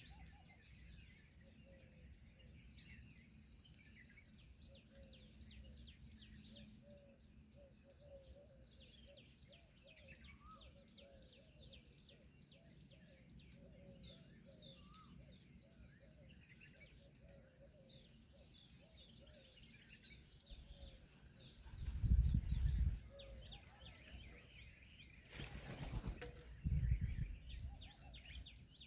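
Many small birds chirping and twittering in quick, repeated high notes over lower repeated calls. Louder low thumps come twice, about two-thirds of the way through and again near the end, with a brief rush of noise between them.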